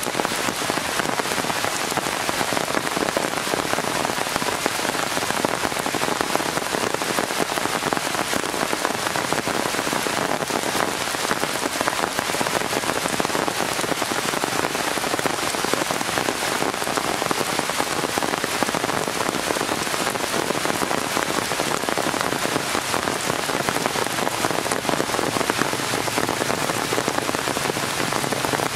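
Steady rain falling on the leaves of the tree canopy: a dense, even patter of drops that does not let up.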